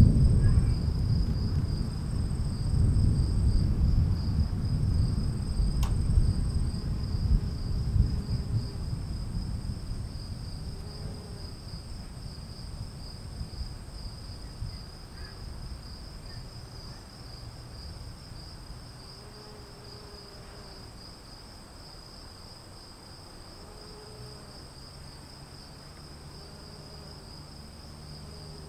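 A long roll of thunder rumbles and slowly dies away over the first ten seconds or so, under a steady chorus of crickets that carries on alone afterwards.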